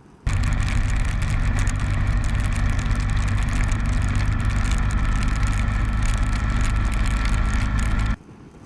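Honda ST1300's V4 engine running at a steady highway cruise with heavy wind and road noise, holding an even pitch. It cuts in sharply just after the start and stops abruptly near the end.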